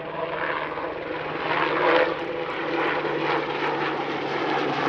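Westland Sea King HAR3 helicopter making a high-speed pass: the steady whine of its twin Rolls-Royce Gnome turboshafts over the beat of the rotor blades. It gets louder over the first two seconds, then holds steady.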